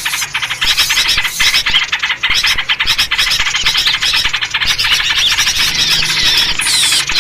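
A dense, noisy chorus of many small songbirds chattering and chirping over one another without pause, in the agitated style of a bird-trapping lure recording, with trucuk bulbul calls among them.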